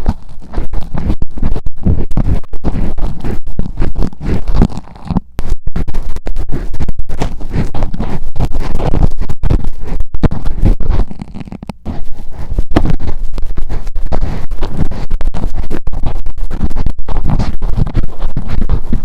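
Metal ear pick scratching and scraping rapidly in a mini microphone, close and loud, for ear-cleaning ASMR. The strokes pause briefly about five seconds in and again near the middle.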